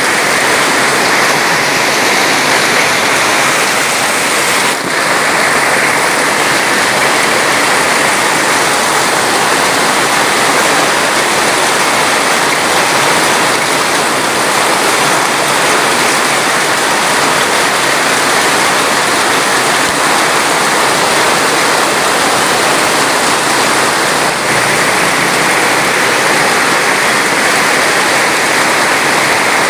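Steady, dense rushing-water noise, the even hiss of heavy rain or a fast stream, with no individual drops or events standing out. It dips very briefly about five seconds in and again near twenty-five seconds.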